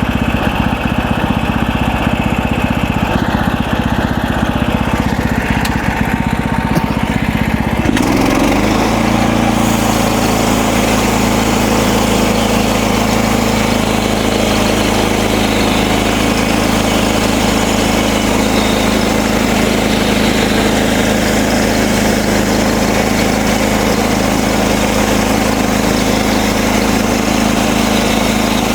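Gas engine of a MechMaxx portable bandsaw mill running while sawing cedar slabs. About eight seconds in the sound shifts to a steadier, hissier run that holds to the end.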